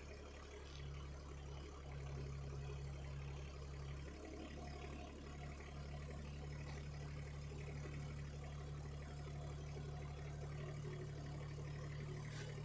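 Mini excavator's diesel engine running steadily while the machine slowly drives its track round to bring the track motor's drain plug to the bottom.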